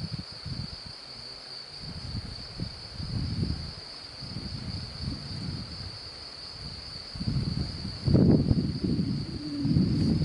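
A steady, unbroken high-pitched insect trill, with uneven low rumbles of handling or wind on the microphone that grow louder about eight seconds in.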